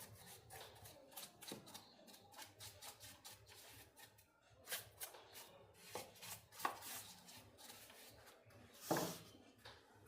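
Hands working on a small portable speaker's parts: a run of light clicks, taps and scrapes, with a louder knock about nine seconds in.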